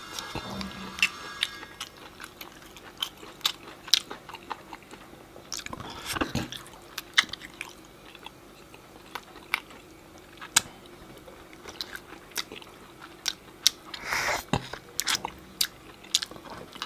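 Close-miked eating: biting and chewing meat and marrow off a large cooked buffalo bone, with many sharp, irregular mouth clicks and smacks and two longer noisy stretches, about six and fourteen seconds in.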